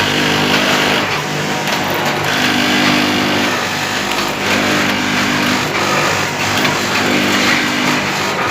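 Vertical sachet packing machine for ground coffee running: a steady motor hum with a mechanical clatter that swells and eases in a regular cycle about once a second as it fills and seals sachets.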